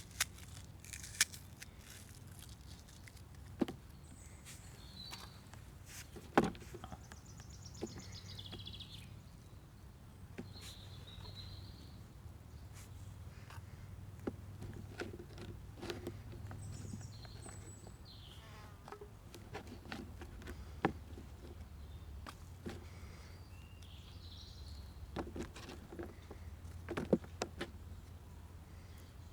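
Woodland ambience: a steady low rumble, scattered sharp clicks and knocks, and brief high-pitched chirps every few seconds.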